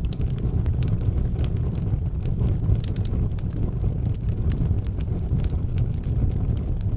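Wood fire burning with a steady low roar of flames and frequent small crackles and pops.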